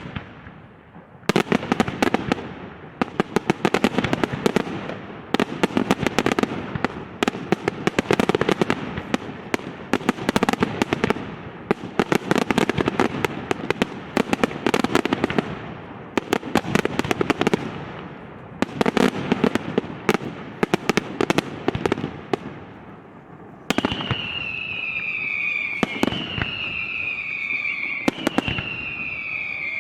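Fireworks display: waves of rapid, dense bangs and crackle, then near the end a string of whistling fireworks, each a falling whistle about two seconds long that starts with a bang.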